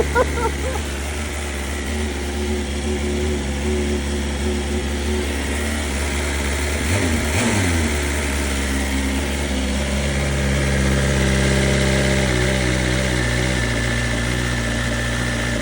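BMW S1000 motorcycle's inline-four engine idling steadily after starting up. Its note shifts briefly about seven seconds in.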